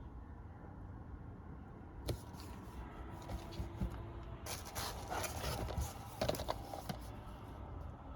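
Packaging and plastic disc cases being handled: a few clicks and crackles from about two seconds in, then a dense crinkling rustle for a couple of seconds, over a steady low hum.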